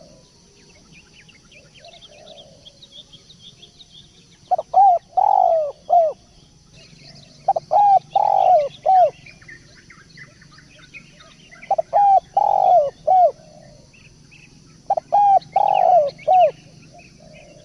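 Turtle dove cooing: four phrases three to four seconds apart, each made of two quick coos, a longer coo and a short final coo. Small birds chirp faintly behind it.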